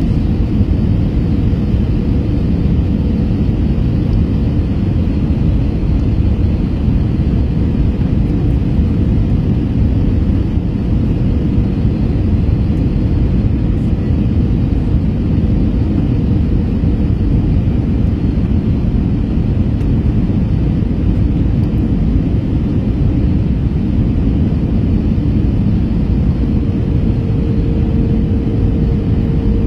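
Cabin noise inside an Airbus A321 airliner: a steady low rumble of engines and airflow. A faint steady hum sits on top of it; the hum fades partway through and returns near the end.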